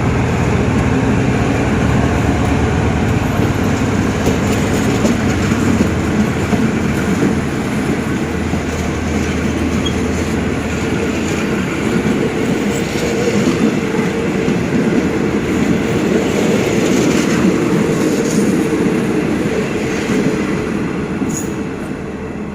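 A diesel locomotive hauling a parcel train away from the platform, its engine under load over the rumble and clatter of the cars rolling past. The noise eases off a little near the end.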